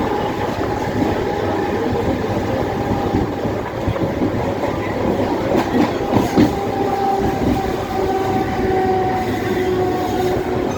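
Mumbai suburban local electric train running along the track: a steady rumble of wheels on rail with a steady hum running through it, and a few knocks about six seconds in.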